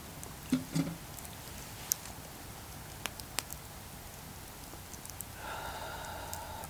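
Wood campfire crackling, with a few sharp pops. Two dull knocks come about half a second in, and a steady pitched sound with several tones starts about two-thirds of the way through.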